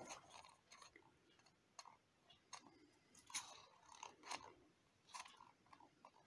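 Faint, scattered small clicks and crackles of objects being handled at a work surface, about a dozen short separate sounds with quiet between them.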